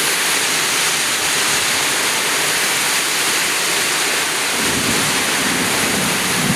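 Heavy rain falling steadily, a dense even hiss. A low rumble joins it about two-thirds of the way through.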